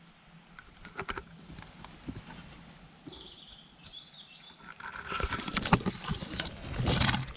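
Close rustling and crackling of leaves and undergrowth being pushed through and handled, building up and loudest near the end. A bird sings a faint, high, falling phrase in the first half.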